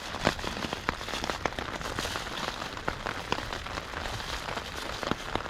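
Heavy rain drumming on a tarp overhead: a steady hiss of rain with many separate sharp drop taps.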